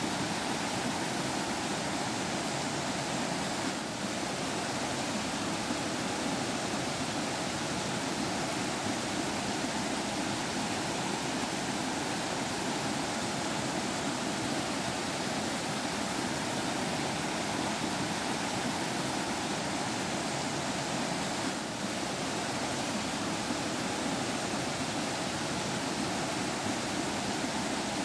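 Forest stream flowing and babbling: a steady, even rush of running water.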